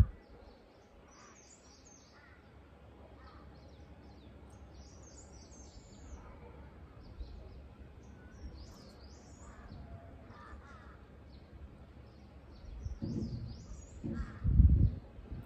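Birds calling: a scattering of short, high calls that bend up and down in pitch over a faint steady background. Near the end come a few low thumps, the loudest about a second before the end.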